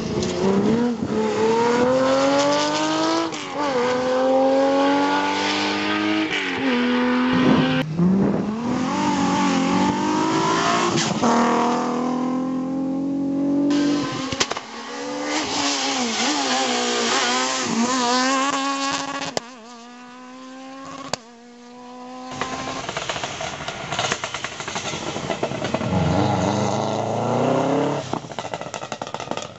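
Rally cars at full throttle. Engine pitch climbs and then drops back with each quick gear change, and this repeats many times. The sound cuts abruptly a few times partway through as one car gives way to another.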